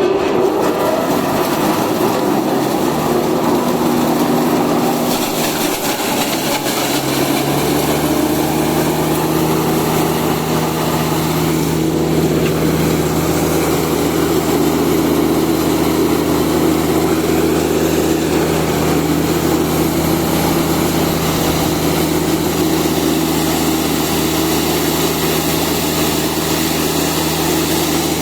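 Hammer mill corn grinder running loudly and steadily: a machine hum under a broad rushing noise, the hum settling onto a steadier, deeper tone about seven seconds in.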